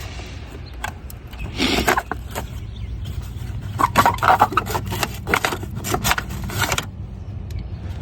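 Plastic engine cover being pulled and worked free from its mounts: irregular clicks, scrapes and rattles of hard plastic, with a short burst about two seconds in and a denser run from about four to seven seconds in.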